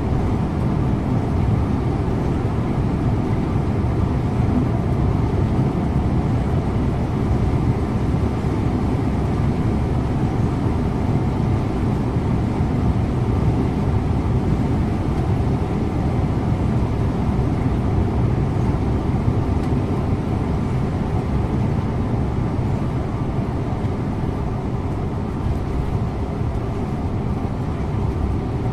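Scania InterLink bus driving at a steady pace: a constant low engine drone and road rumble.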